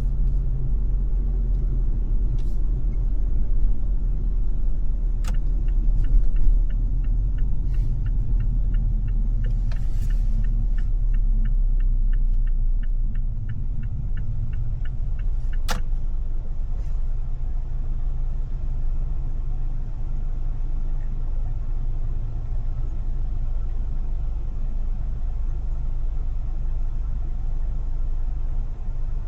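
Car driving in city traffic: a steady low rumble of road and engine noise that eases a little about halfway through. A regular ticking, about three a second, runs for several seconds in the middle, with a few single sharp clicks.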